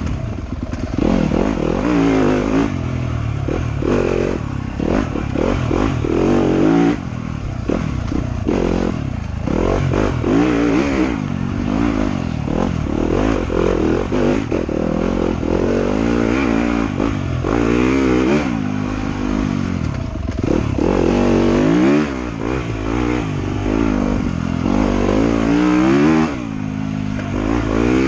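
Trail motorcycle engine revving up and dropping back again and again, its pitch rising and falling every second or two, with scattered knocks and rattles.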